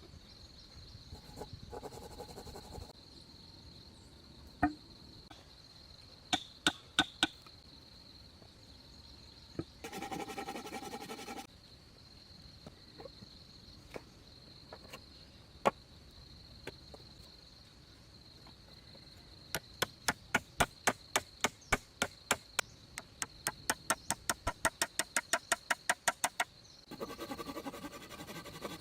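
Sharp knocks of a hand tool striking wood: a few single blows, then a fast run of about three strikes a second in the second half. A few short rasping strokes come in between, and a steady high insect drone runs underneath.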